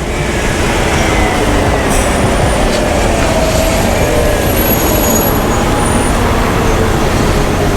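A city bus running close by: a steady loud rush of engine and road noise with a faint gliding whine.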